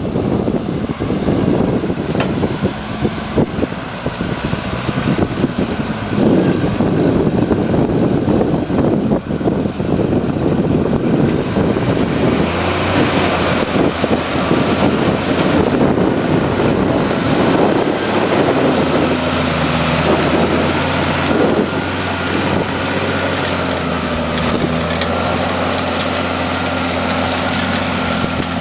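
Deutz-Fahr tractor's diesel engine running steadily while pulling a plough, with wind buffeting the microphone. About twelve seconds in, the engine's steady hum stands out much more clearly over the wind.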